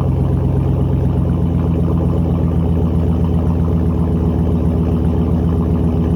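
2021 Ram 1500's 5.7 Hemi V8 idling through a Borla ATAK exhaust shortly after a cold start, a steady, even exhaust note with no revving.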